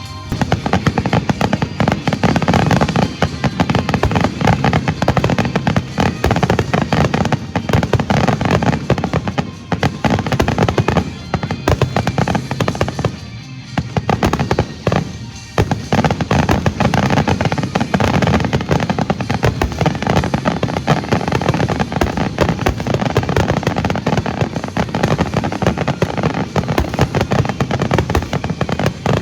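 Fireworks display: a dense, loud, near-continuous barrage of bursts, easing briefly about 13 seconds in before picking up again.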